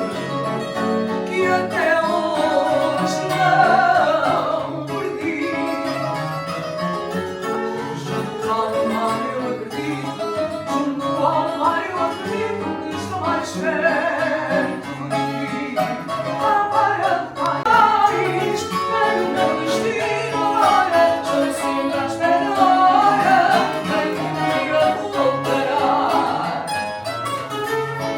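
Live fado music: plucked guitars play a flowing melody over a picked bass line.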